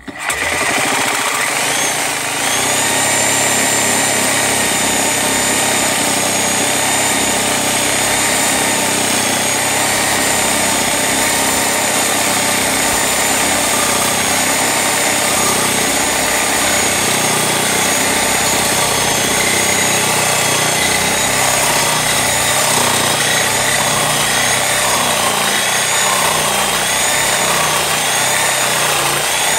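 Handheld electric saw with a fine-toothed metal-cutting blade running at full speed through a metal pipe, starting abruptly and running steadily throughout, with a high whine that begins to waver up and down in the last third as the cut goes on.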